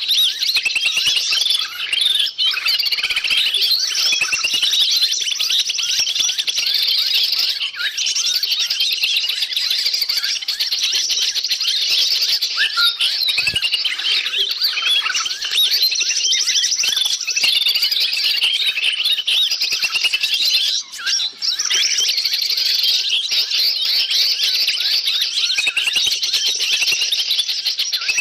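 A dense, loud chorus of many small forest birds chirping and chattering at once, with no gaps: a bird-lure recording used to draw wild birds in. The calls are high-pitched short chirps and trills, crowding over one another, with a brief lull a little after two-thirds of the way through.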